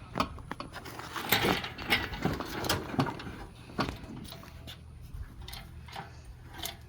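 Scattered clicks and knocks of hand work on the car's parts, busiest in the first four seconds, then sparser light ticks, over a steady low hum.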